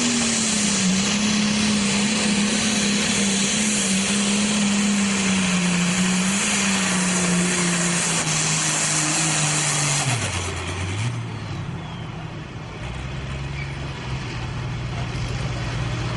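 Pro stock pulling tractor's turbocharged diesel engine running loud at full throttle under load, its note slowly sagging. About ten seconds in the throttle comes off and the engine drops quickly to a lower, steady run.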